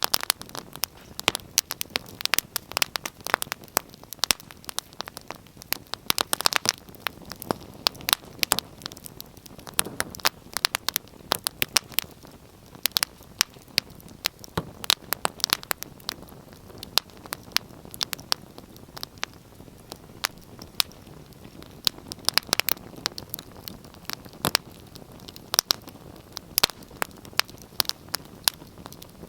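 Wood fire burning in a fireplace: a steady low hiss with many sharp, irregular crackles and pops.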